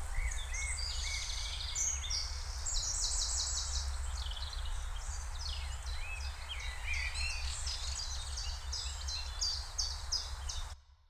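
Several birds chirping and trilling in quick repeated phrases over a steady low rumble, cutting off abruptly near the end.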